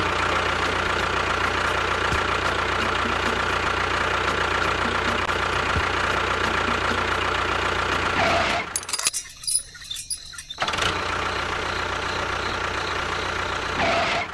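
A small motor running steadily with a constant whine. The sound breaks off abruptly for about two seconds, two-thirds of the way through, then resumes unchanged.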